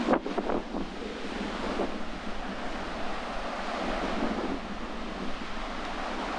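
Sea waves washing onto the shore, one breaking at the start, with strong wind buffeting the microphone.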